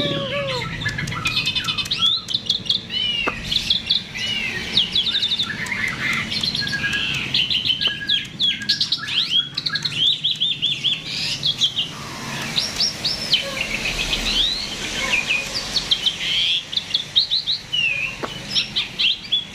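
A starling singing vigorously without pause: a varied song of quick whistles, rising and falling sweeps and rapid trills.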